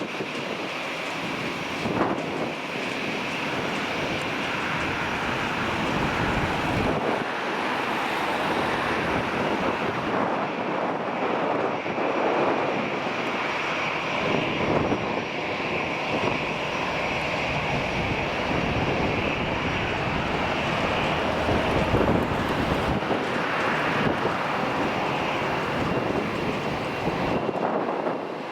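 Airliner engines running steadily at an airport, a continuous rushing hiss with a steady higher tone in it. Wind gusts buffet the microphone throughout.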